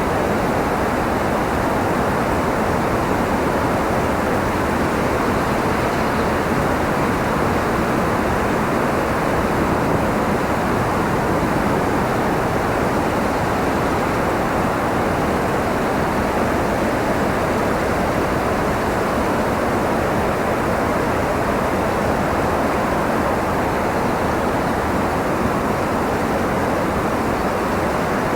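Steady wind noise, an even hiss that doesn't gust, rise or fall.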